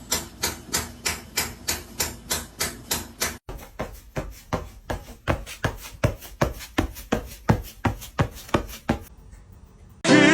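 A steady run of sharp taps or knocks, about four a second; after a break, a quicker and less even run of taps that stops about a second before the end.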